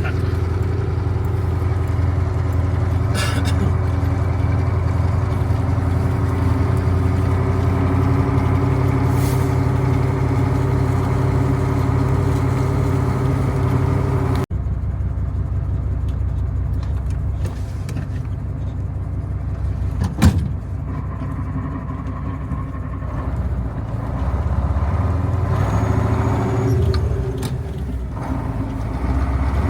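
Heavy diesel harvest machinery running steadily, its engine note changing abruptly about halfway through, with one sharp knock about two-thirds of the way in.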